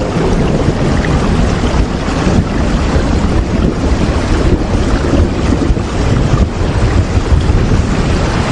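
Steady heavy rain: a dense, even rushing hiss with a strong low rumble underneath, unbroken throughout.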